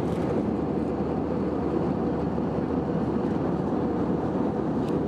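Steady cabin roar inside an Airbus A321 with IAE engines, engine and airflow noise heard from a window seat, even and unchanging.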